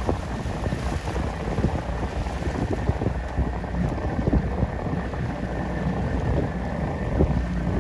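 A boat under way on open water, with wind buffeting the microphone in irregular gusts over a steady low rumble.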